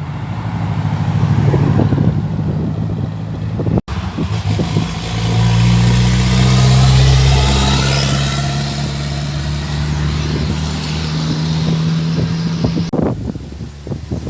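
A car's engine running with a steady note, breaking off sharply about four seconds in. The engine then swells as a car drives close past, its engine and road noise loudest in the middle and falling away near the end.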